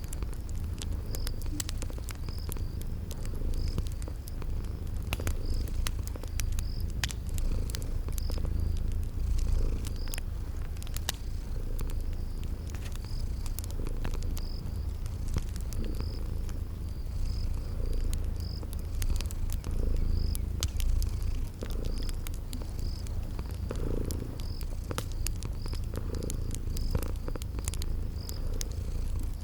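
Cat purring steadily in a deep, continuous rumble, with a wood fire crackling in scattered sharp pops and a cricket chirping at an even pace, about once a second.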